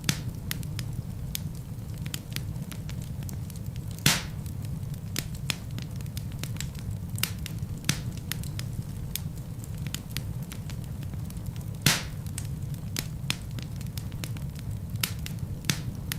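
Wood fire burning in a fireplace: a steady low rumble of flames under frequent sharp crackles, with two louder pops of the logs, about four seconds in and again about twelve seconds in.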